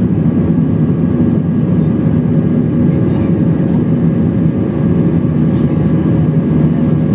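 Steady cabin drone of an Airbus A321 airliner: engine and airflow noise heard from inside the passenger cabin, deep and even, with a faint steady hum running through it.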